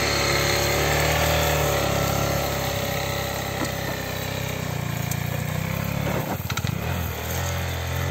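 Single-cylinder KTM adventure motorcycle engines running steadily, then revving as the bikes pull away over the dirt track about six to eight seconds in.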